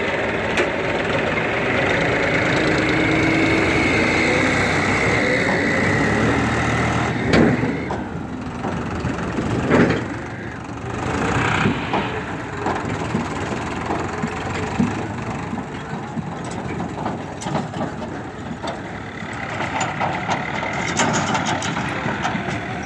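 Tractor engine running, with two loud knocks about seven and ten seconds in.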